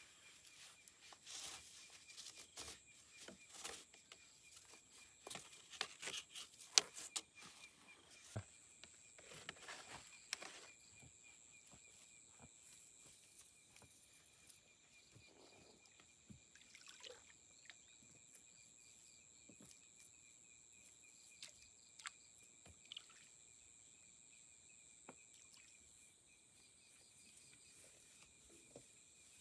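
Faint outdoor ambience with insects calling in steady, high-pitched drones at two pitches, and scattered small clicks and rustles during the first ten seconds or so.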